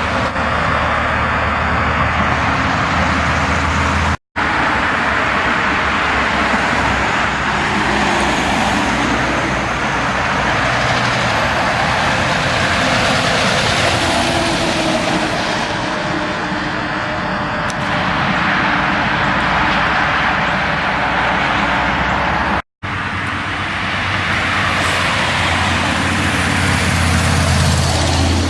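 Road traffic with heavy trucks going by: steady engine and tyre noise with a low engine hum underneath. It cuts out abruptly for an instant twice, about four seconds in and again near the end.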